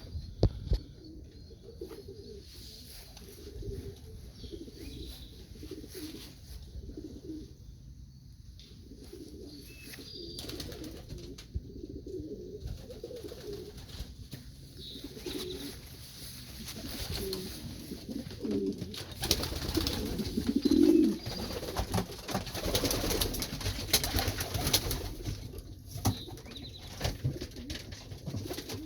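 Domestic pigeons cooing in a loft, a run of low murmured coos. In the last third louder rustling and sharp knocks join in.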